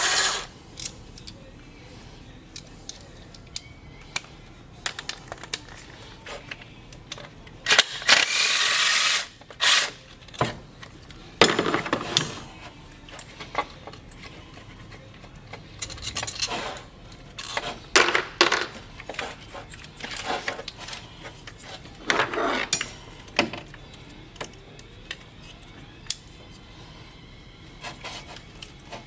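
Hand tools and small metal parts clinking and clattering at irregular intervals, with a few short, louder noisy stretches.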